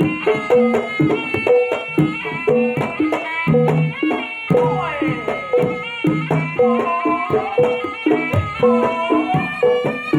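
Jaranan music for a barongan dance: kendang hand drums and pitched gong-chime percussion play a steady, driving rhythm under a melody line.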